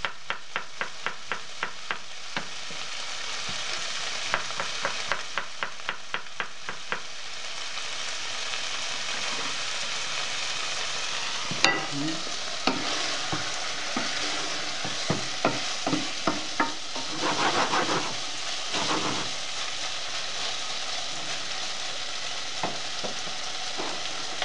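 Chicken pieces sizzling steadily as they fry in oil in a pot. For the first several seconds a knife chops quickly on a plastic cutting board, about four cuts a second. Later a wooden spoon knocks and scrapes in the pot as the chicken is stirred, and then the sizzle carries on alone.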